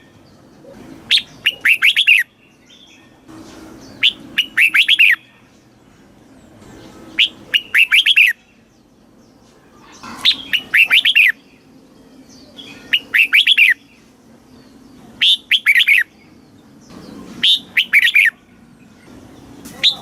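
Red-whiskered bulbul singing: short phrases of quick, bright notes, each about a second long, repeated about every three seconds.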